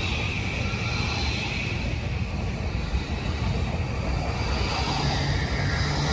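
JR East E235-1000 series electric commuter train running along the platform: a steady rumble of wheels on the rails, with a high whine that fades over the first couple of seconds and a low hum that comes in about five seconds in.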